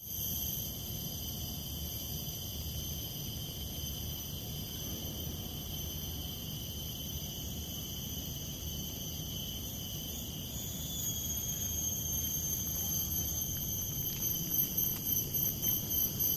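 Steady, shrill chorus of insects in tropical forest, several high-pitched tones together. About two-thirds in the tones shift slightly, and near the end the chorus pulses rhythmically. A low rumble runs underneath.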